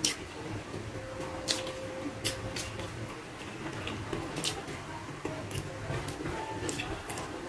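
Close-up mukbang eating sounds: chewing with wet mouth smacks and sharp clicks every second or so, the loudest right at the start.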